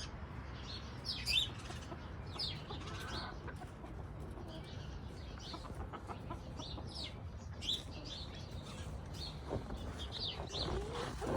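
Chickens clucking and chirping: many short, high calls scattered throughout, over a low steady hum.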